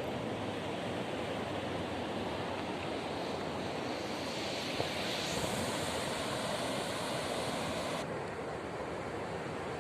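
Steady rushing of water, an even noise without pitch; its highest hiss drops away suddenly about eight seconds in.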